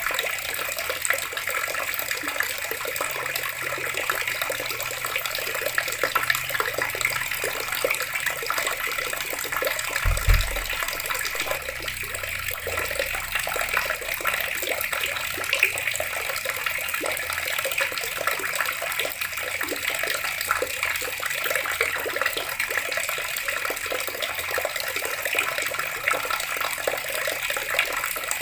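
Water running steadily from a tap and splashing, with a brief low thump about ten seconds in.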